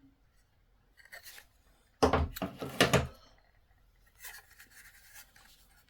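Hands handling the diesel heater's control board and parts on a work surface. There is a short rub about a second in, then a loud burst of knocks and clatter for about a second, then light rustling.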